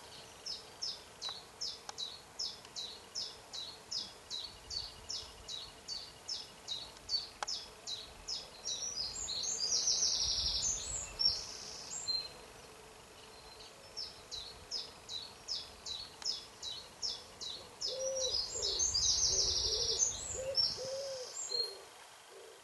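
A songbird singing twice: a long run of repeated high, clear notes at about two to three a second, each run ending in a fast, dense trill. Near the end a low hooting bird call repeats several times.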